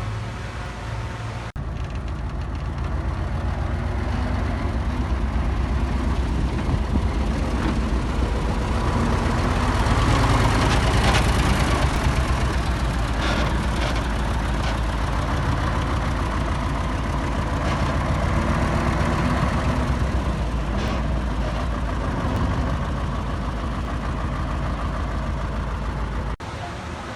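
Heavy earthmoving machinery's diesel engine running steadily with a low throb. It swells louder about ten seconds in, and the sound changes abruptly near the start and the end.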